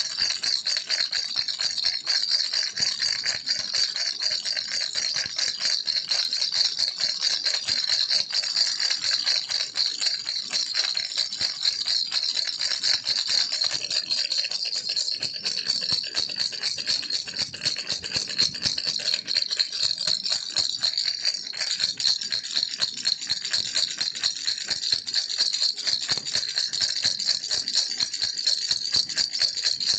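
Baby's toy rattle (kiliki rattle) shaken without pause: a dense, rapid, high-pitched rattling of small beads.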